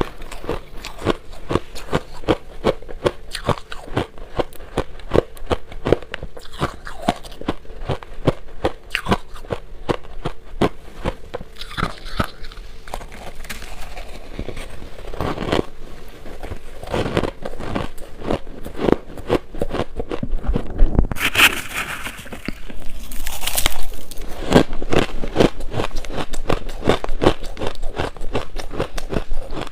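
Shaved ice being bitten and chewed: a dense, continuous run of crisp crunches and crackles, a little louder in the last few seconds.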